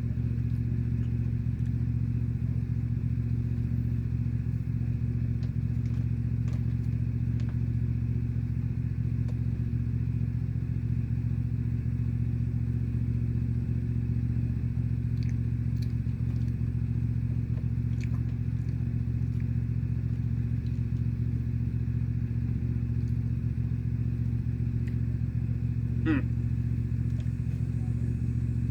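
Lawnmower engine running steadily, a constant low drone. A few faint clicks and one brief falling squeak near the end sit above it.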